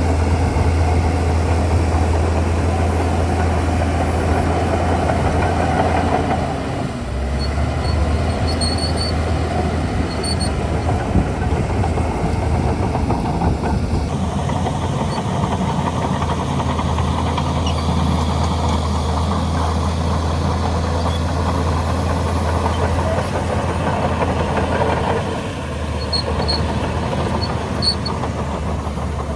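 Shantui DH17C2 bulldozer's diesel engine running steadily under load with a deep hum. The engine note dips briefly twice, about seven seconds in and again a few seconds before the end.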